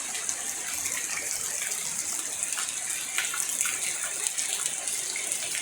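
Steady rain falling and water running, a continuous rushing noise with a steady high hiss over it and scattered small ticks.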